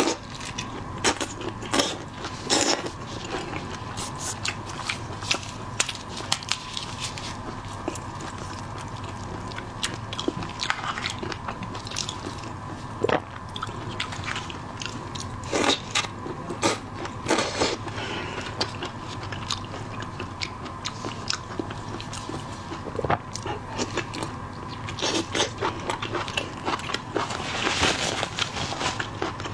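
Close-miked eating of seafood: repeated biting, crunching and chewing at an irregular pace, with sharp crunches scattered throughout.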